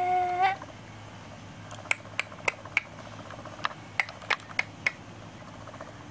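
A voice holding a sung note stops about half a second in. After a short pause comes a run of about ten sharp clicks, roughly three a second, lasting about three seconds.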